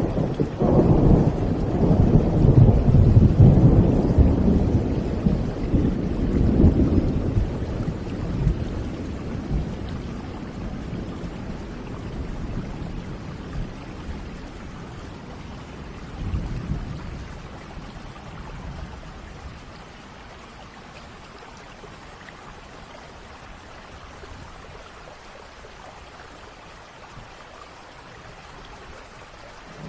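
Thunder rolling over steady rain. A long low rumble is loudest in the first several seconds and dies away over the next ten or so, leaving the even hiss of rain. Another rumble begins at the very end.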